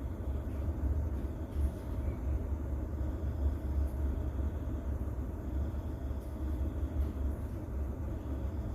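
Steady, deep, muffled rumble of a rain-and-distant-thunder ambience mixed with low noise, with little hiss on top.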